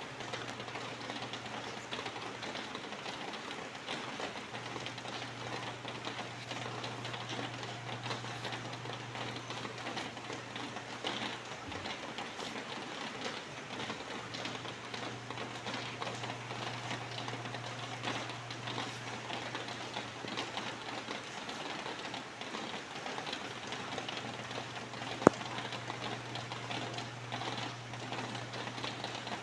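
Steady rain, a dense patter of drops. A low hum runs underneath and drops out a few times, and a single sharp click stands out near the end.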